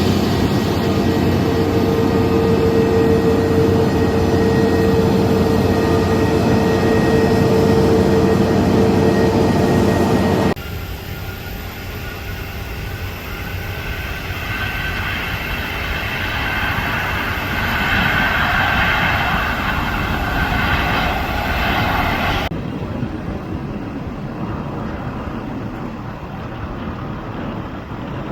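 Jet airliner engines running, in three cut-together stretches. The first is a loud, steady noise with a held hum. About ten seconds in, it drops suddenly to a quieter engine noise with a higher whine. Near the end it changes again to a quieter, duller engine noise.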